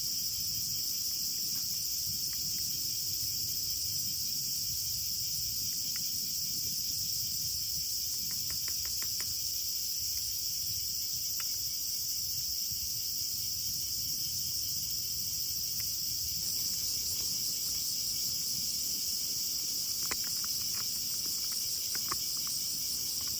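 Steady, high-pitched chirring of an insect chorus, with a few faint clicks around a third of the way in and again near the end.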